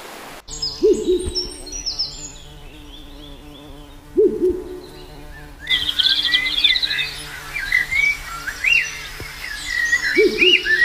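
A bird's low hooting call, heard three times, a few seconds apart. Small birds chirp and twitter throughout, thickening into a busy chorus from about six seconds in.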